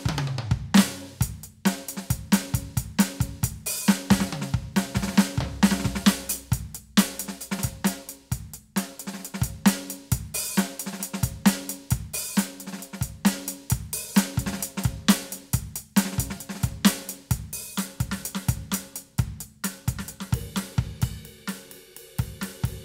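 Roland TD-17KVX electronic drum kit played in a steady, busy groove, with kick, snare, hi-hat and cymbal hits from the module's drum sounds.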